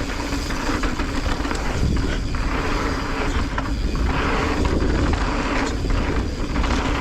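E-mountain bike riding down a dirt singletrack: tyres rolling over dirt and roots with rattling, wind rumble on the camera microphone, and a steady low hum underneath.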